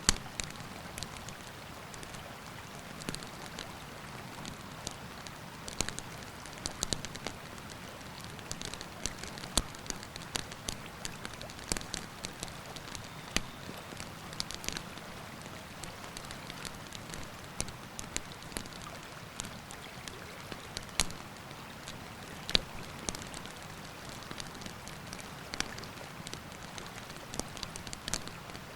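Wood campfire crackling, with frequent irregular sharp pops over the steady rush of a river.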